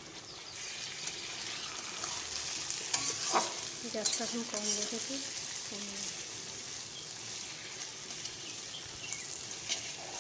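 Prawns and onions sizzling in hot mustard oil in a steel kadai, while a steel spatula scrapes and clicks against the pan to separate the prawns. There are a few short squeaks of metal on metal around the middle.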